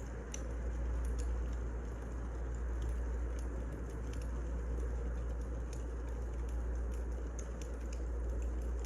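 Wood fire burning, with irregular crackles and pops over a steady low rumble.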